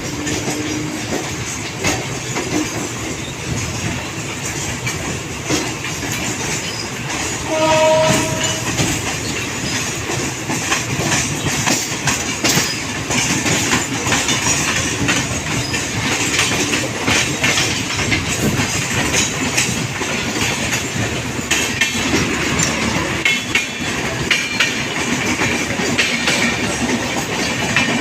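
Train running on the rails, its wheels clattering steadily over the track, with a short horn blast about eight seconds in.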